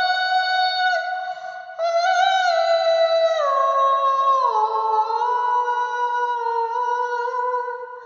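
A high voice humming or singing long wordless notes that slide smoothly from one pitch to the next, with a short break about a second in and a drop to a lower note about halfway through.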